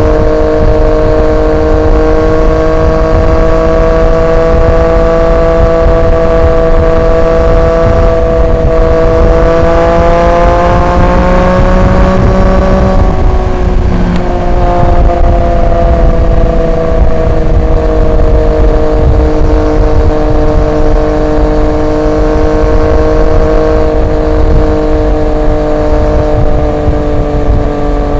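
Triumph Street Triple 765 RX's three-cylinder engine running through an SC Project S1 exhaust at steady cruising revs. The pitch climbs gradually, breaks briefly for a gear change about halfway through, then resumes lower and slowly eases down, over a low wind rumble.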